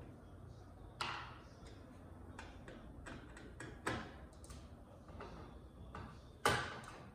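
Handling of screwdriver, screws and TV casing parts: three sharp knocks, about a second, four seconds and six and a half seconds in, with lighter clicks and ticks between.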